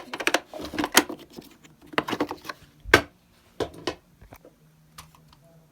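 Plastic vacuum cleaner parts handled during disassembly: a string of clicks, knocks and rattles in short clusters, with the sharpest knock about three seconds in.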